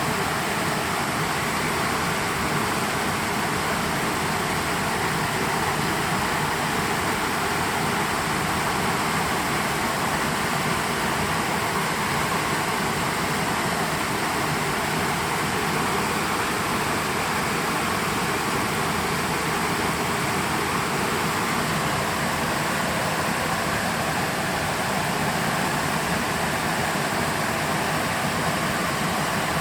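Creek water rushing and splashing over rocks, a steady even rush.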